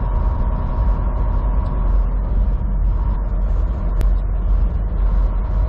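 Semi truck's diesel engine and drivetrain droning steadily, heard from inside the cab as the truck creeps along, with a short sharp click about four seconds in.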